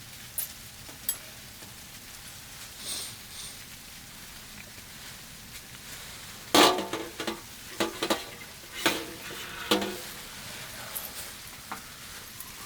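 Metal cookware and utensils knocking together: a cluster of sharp clinks with a brief ring, the loudest about halfway through, over a faint steady hiss.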